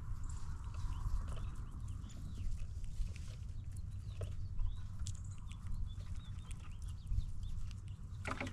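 Many small birds chirping in short, quick calls over a steady low rumble, with scattered sharp clicks and taps, the loudest near the end.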